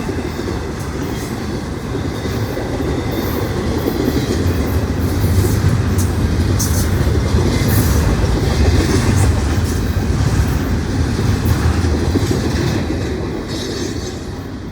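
Norfolk Southern intermodal freight train's cars rolling past, a steady rumble with wheels clicking over the rail joints. It is loudest in the middle and fades near the end.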